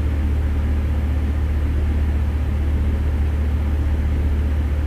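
Steady low mechanical drone of running machinery, such as an engine, with an even hiss above it.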